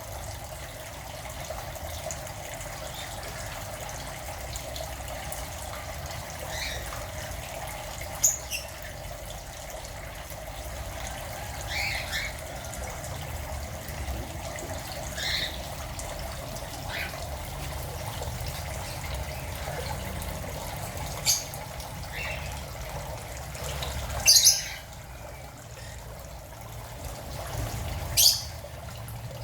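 Aviary birds giving short chirps and squawks every few seconds, a few louder and sharper in the second half, over a steady trickle of running water.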